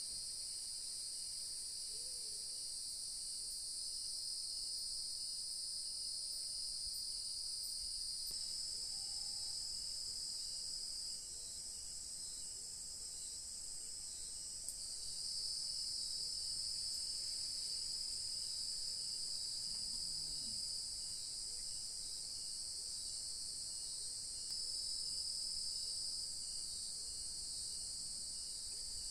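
A steady chorus of crickets and other insects, with several shrill layers that shift in loudness a few times. A faint, regularly pulsed chirp sits beneath them, and a few faint, brief animal calls come through around a third of the way in and again at two-thirds.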